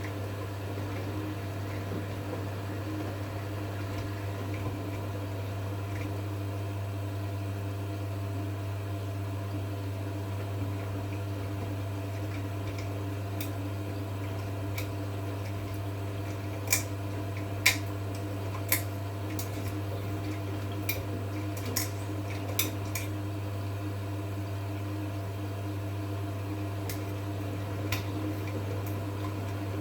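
2011 V-Zug Unimatic SL washing machine running in a 40 °C wash programme: a steady low hum, with a run of sharp clicks and clinks from about 16 to 23 seconds in.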